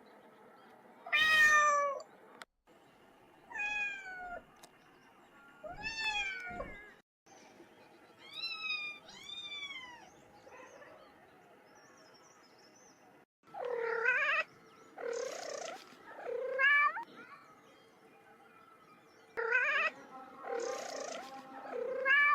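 Baby kittens meowing repeatedly: a series of high-pitched mews, many rising and then falling in pitch, coming in clusters with short quiet gaps between.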